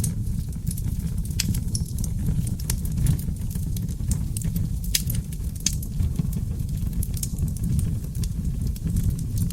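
Wood fire of seasoned oak logs burning in a fireplace: sharp crackles and pops come several times a second over a steady low rumble of the flames.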